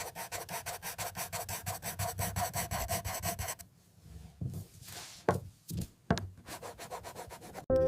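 Pencil shading on paper in fast, even back-and-forth strokes, about eight a second. After about three and a half seconds it slows to a few separate, fainter strokes and scratches.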